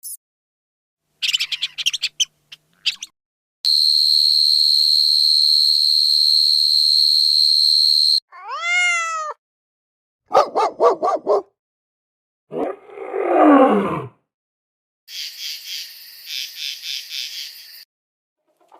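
A string of short animal-call clips, each cut off by silence: brief chirps, then a steady shrill high-pitched call for about four seconds, a single call that rises and falls in pitch, a quick run of calls, a call that drops in pitch, and near the end a pulsed high chirping.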